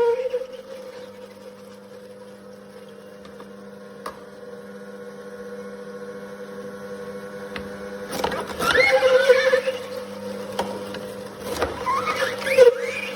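Cold-press slow juicer's motor running with a steady hum, broken by two louder, irregular spells of pressing noise about eight and twelve seconds in as produce is squeezed by the auger.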